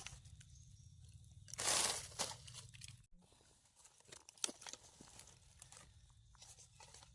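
Dry leaf litter crunching and rustling in scattered crackles, with one louder rustle about two seconds in.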